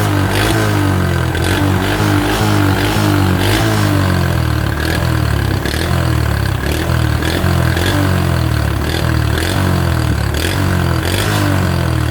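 A 110cc motorcycle engine running through a reworked aftermarket muffler, revved up and down again and again with its pitch rising and falling.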